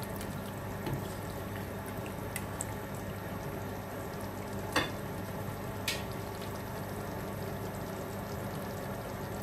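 Mutton cooking in onion-tomato masala in a pot, sizzling steadily. Two short clicks come about a second apart near the middle.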